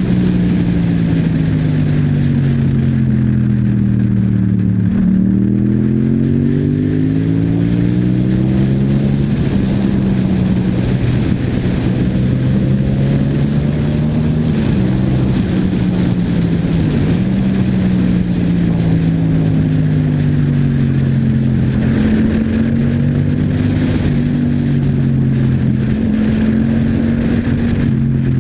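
Yamaha MT-07's parallel-twin engine through an Akrapovic exhaust under way. The engine note falls as the bike slows about five seconds in, then climbs again, with several steps and dips in pitch that fit gear changes and throttle on and off.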